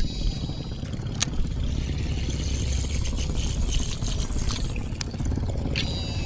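Steady low rumble of a small boat's engine running, with a couple of sharp clicks, one about a second in and one near the end.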